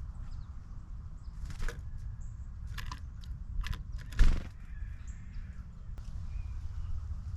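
Crows cawing: about four short, harsh caws spread through the middle, the loudest about four seconds in, over a steady low rumble.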